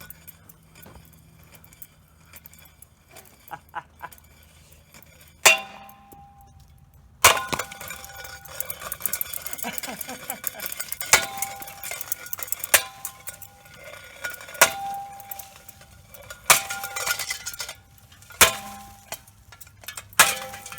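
Hampton Bay Littleton ceiling fan spinning with only one blade left, badly out of balance. It rattles and clatters, with a loud, ringing metallic clank about five seconds in and then roughly every two seconds.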